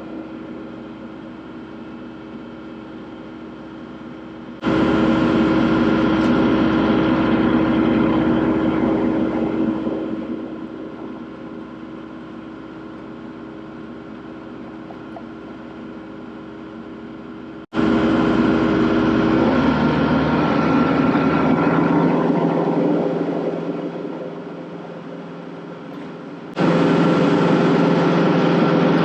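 Kubota tractor's diesel engine running steadily, getting louder and quieter in turns: it jumps up sharply about five seconds in and near the end, and eases off gradually in between.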